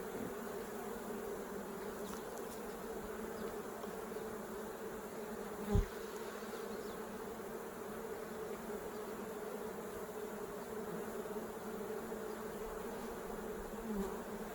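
Honeybee colony buzzing around an opened hive, a steady hum. A single dull knock about six seconds in.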